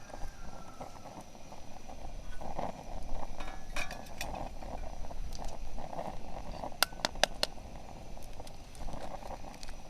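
Handling noise with sharp light clinks, a cluster of them about a third of the way in and another just past the middle, like small hard objects or cookware knocking together.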